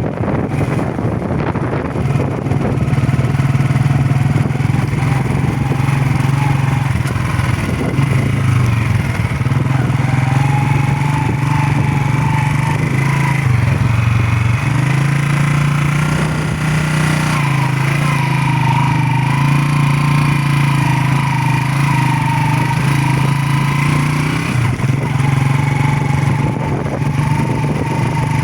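Motorcycle engine running under way at steady, low revs. Its pitch drops for about a second around the middle, then picks up and holds.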